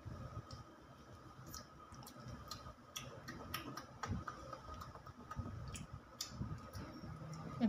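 Irregular small clicks and smacks of a young child chewing a mouthful of rice, over a faint steady tone.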